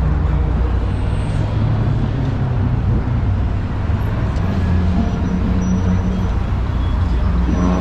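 Downtown street traffic: a steady low engine rumble from motor vehicles over general city noise.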